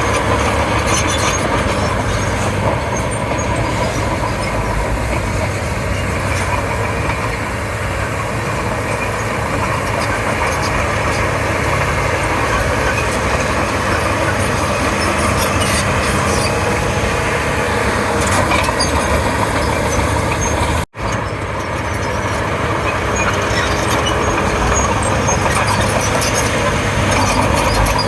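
Komatsu D31P crawler bulldozer working, its diesel engine running steadily under load with mechanical clatter over it. The sound cuts out for a split second about three quarters of the way through.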